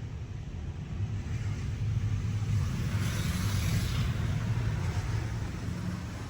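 PDQ LaserWash G5-S touch-free car wash running: a steady low rumble, with a hiss of spray that swells about halfway through and then fades.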